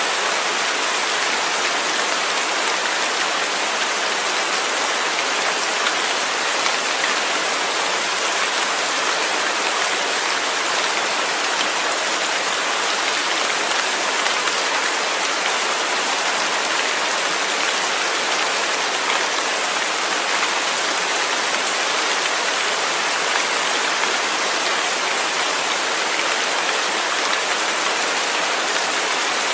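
Rain falling steadily: an even, unchanging hiss with no thunder.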